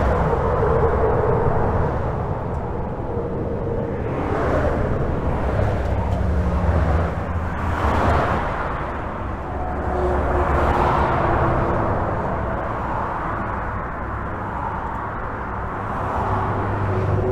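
Steady highway traffic heard from under a bridge: a constant low rumble of engines and tyres, with the hiss of individual vehicles swelling and fading every few seconds as they pass.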